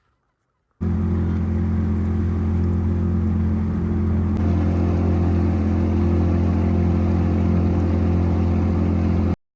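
Boat engine running at a steady speed, with a constant low hum. It starts abruptly about a second in and cuts off just as abruptly near the end.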